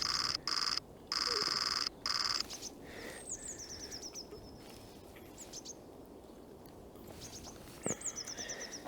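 A loud, steady high-pitched buzz that cuts in and out for the first couple of seconds, then a small songbird calls twice, each a quick falling run of thin high notes.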